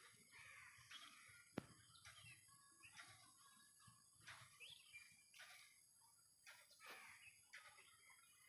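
Faint birds chirping, short calls repeating every second or so over a steady high hiss, with one sharp click about one and a half seconds in.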